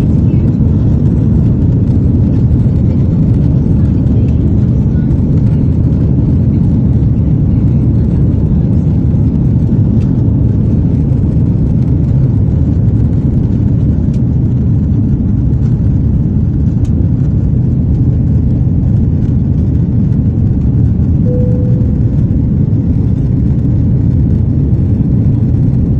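Aircraft on its take-off run, heard as a steady, loud low rumble that holds an even level throughout, with a brief single tone about 21 seconds in.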